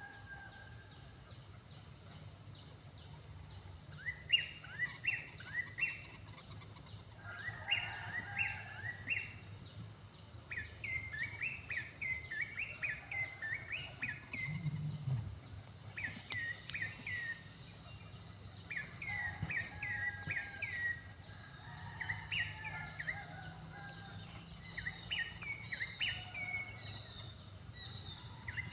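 A bird calling in repeated short phrases of quick, falling high chirps, over a steady chorus of insects buzzing and trilling.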